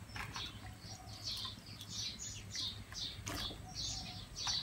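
A small bird chirping over and over, two to three short high chirps a second, with a few sharp clicks along the way.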